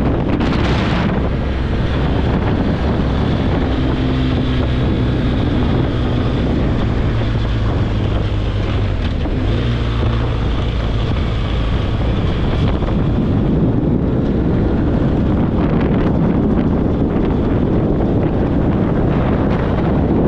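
Wind buffeting the microphone on a moving BMW R1200GS Adventure motorcycle, with the engine drone beneath it. A steady engine note comes through more clearly from about four seconds in and fades out a little after twelve seconds.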